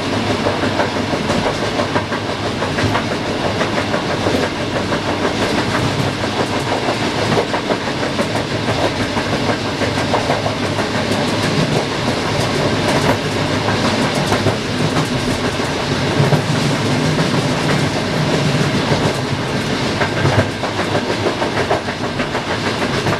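Passenger train running along the track, its wheels clicking steadily over the rail joints under a continuous rumble.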